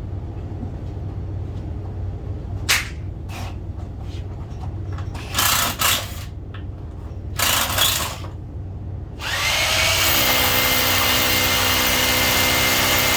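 Power drill: a few short bursts and knocks, then about nine seconds in it spins up and runs steadily at full speed.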